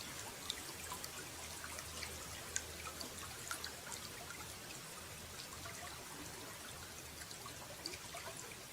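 Running water trickling and pouring steadily, with many small droplet plinks scattered through it.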